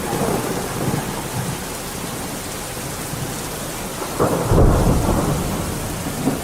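Steady rain falling, with a low roll of thunder swelling about four seconds in and fading away.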